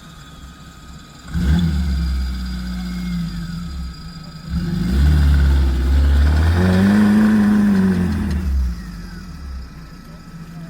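Off-road vehicle's engine under load. It comes up loudly about a second in, revs harder from about four and a half seconds with a pitch that rises and falls, then drops back near the end.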